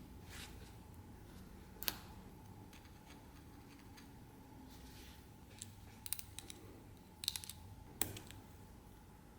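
Sharp light clicks and taps of small hard objects being handled. There is a single click about two seconds in, a quick run of clicks around six seconds, then two more near seven and eight seconds.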